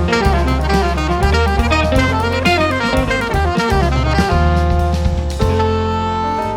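Jazz quintet playing live: saxophone over piano, guitar, bass and drum kit. A busy run of moving notes with drum hits settles into a held chord about five seconds in.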